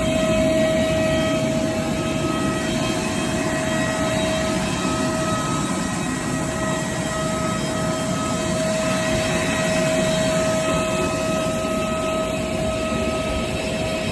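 Jet airliner engines running steadily: a constant rushing roar with a steady whine on top.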